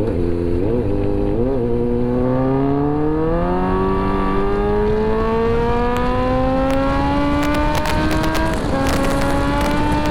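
Kawasaki Z900's inline-four engine under hard acceleration: two short throttle blips, then a long rising pull as revs climb, with a drop in pitch at an upshift near the end.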